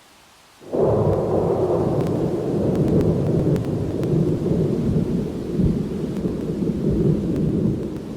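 Thunder: after a faint hiss, a clap breaks in suddenly less than a second in, then rumbles on for several seconds, easing slightly near the end.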